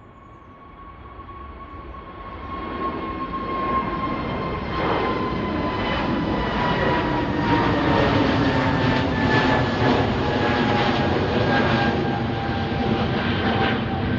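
A departing airliner's engines at take-off power, growing louder over the first few seconds and then holding as a loud rumble. High engine whines slide slowly down in pitch as it passes.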